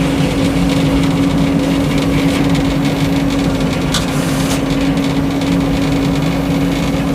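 Frick sawmill and its power unit running steadily, with one steady hum and a short knock about four seconds in.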